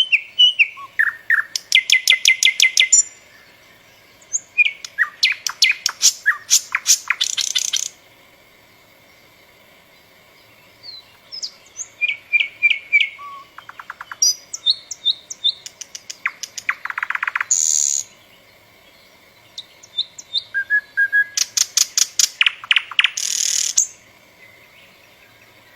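A songbird singing long, varied phrases of rapid whistled and chirping notes, with a few seconds' pause between phrases.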